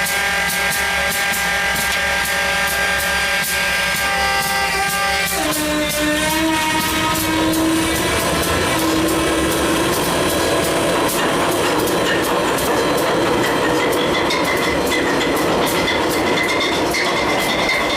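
Sound-equipped HO scale GE U30C model locomotive playing its diesel start-up sound through its small onboard speaker. The engine sound shifts sharply down in pitch about five seconds in, then settles and slowly rises into a running engine sound.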